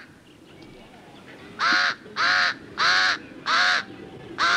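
A bird calling: five short, harsh caws at an even pace, about two-thirds of a second apart, starting about a second and a half in, over faint outdoor background noise.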